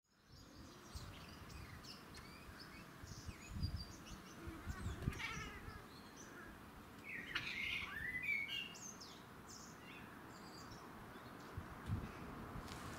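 Wild birds chirping and singing, many short high chirps and sweeping calls, busiest in the middle, over a steady outdoor background hum, with a few low thumps.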